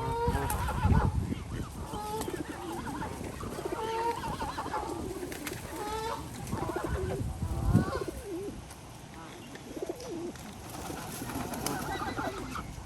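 A crowd of birds being fed, with pigeons cooing among many short, repeated calls. Two louder low thumps come about a second in and near eight seconds.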